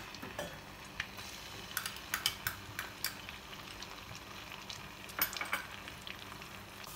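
Ginger-garlic paste sizzling in hot oil in a kadai, stirred with a spoon that clicks and scrapes against the pan now and then.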